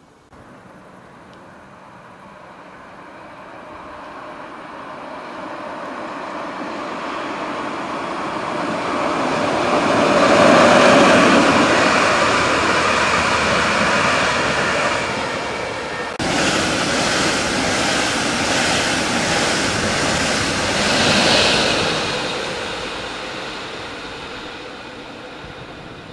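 Red DB S-Bahn electric multiple unit passing beneath a bridge, its wheels running on the rails. The noise swells to its loudest about ten seconds in, changes abruptly around sixteen seconds, swells again a little past twenty seconds and then fades away.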